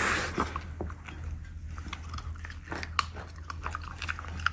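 Shiba Inu crunching and chewing a hard treat that was broken into pieces for it, with irregular sharp crunches.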